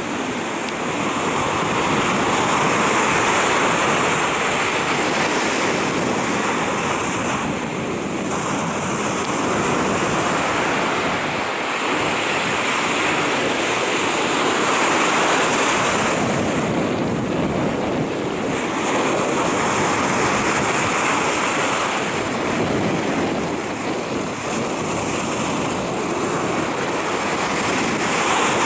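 Sea surf breaking on a beach: a continuous wash of waves that swells and eases every several seconds.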